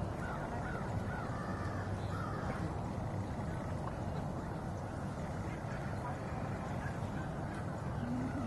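Birds calling in the distance, a few short calls in the first few seconds, over a steady low background rumble.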